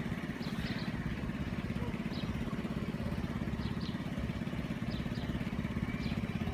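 Class 171 Turbostar diesel multiple unit idling while held at a signal: a steady low engine throb. A few faint high chirps, like small birds, sound over it.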